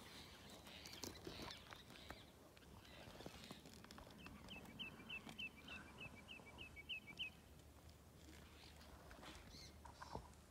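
Faint outdoor quiet: a bird gives a quick run of about ten short, high chirps, about three a second, in the middle of the stretch, with a few faint scuffs and clicks around it.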